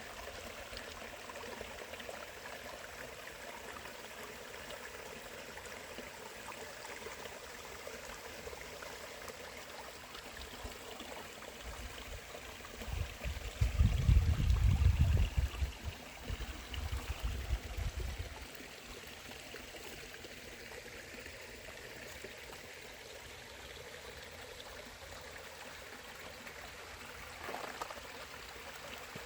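Creek water running over small waterfalls and cascades: a steady rush. Near the middle, a loud low rumble rises over it for about five seconds.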